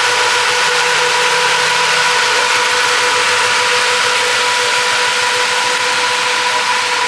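Car engine idling steadily, with a constant high whine and a loud hiss over it.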